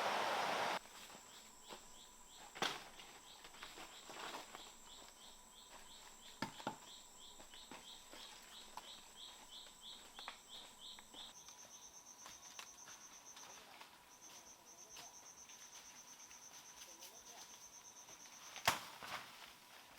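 Rushing water that cuts off abruptly within the first second, followed by insects: a steady high whine with a repeated chirp about two to three times a second, then a fast high-pitched trill that pauses briefly once. A few sharp knocks stand out, the loudest near the end.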